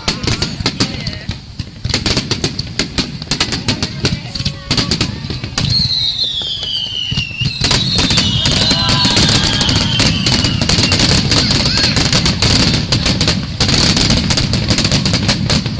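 Fireworks finale: rapid, dense bangs of bursting shells that thicken into a near-continuous loud barrage about halfway through, with a couple of long whistles falling in pitch in the middle.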